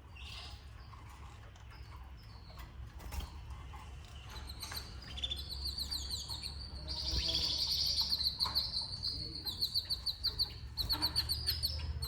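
Canaries chirping in fast, rapidly repeated trills, starting about four seconds in and growing louder and denser, over a low steady hum. A few faint clicks come before the chirping.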